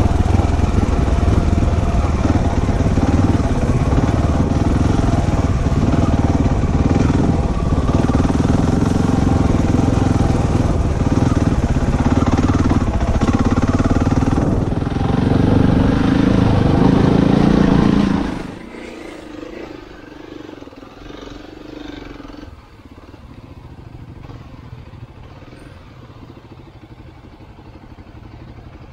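Dirt bike engine running under load up a climb, its revs rising near the end of the stretch, then cutting off suddenly about 18 seconds in. After that only a much fainter steady low rumble remains.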